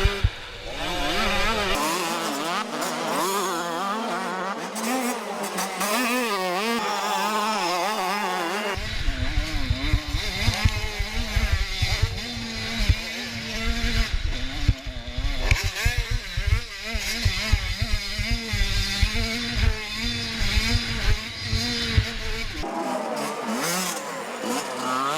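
Motocross bikes racing, their engines revving up and down repeatedly as the riders work the throttle. The sound changes abruptly a few times.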